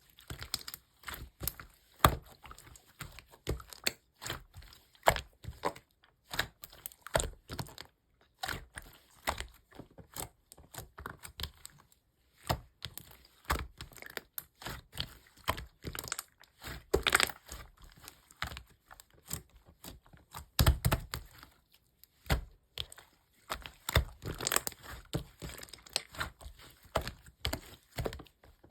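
Light green kkwari slime being squeezed and pressed by hand, giving irregular popping and crackling as trapped air bursts, in clusters with a few brief pauses.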